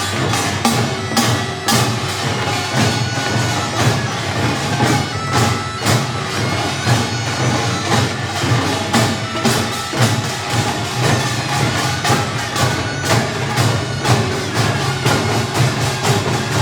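Korean pungmul percussion ensemble playing a fast, driving rhythm: clanging small gongs and drums struck about twice a second, without pause.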